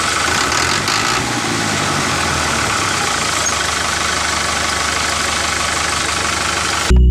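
Engine running steadily at idle with a dense, rough noise. Music cuts in suddenly at the very end.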